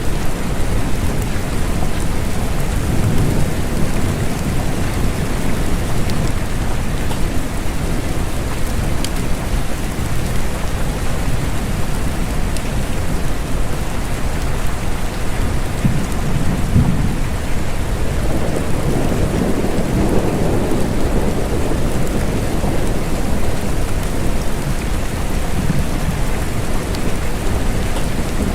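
Steady rain falling, with low rumbles of thunder rising and fading, the strongest about two-thirds of the way through.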